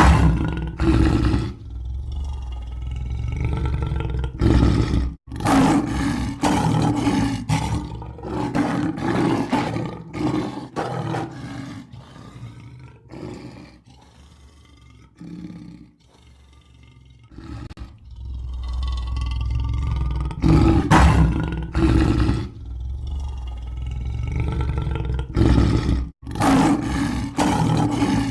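Lion roaring and growling: a run of deep roars that fades to quieter growls in the middle and then builds again, broken by two sudden brief gaps.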